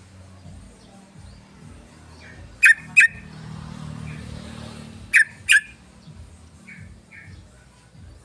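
Yellow-vented bulbul (trucukan) giving sharp, loud calls in quick pairs, twice, about two and a half seconds apart, followed by a few faint short chirps.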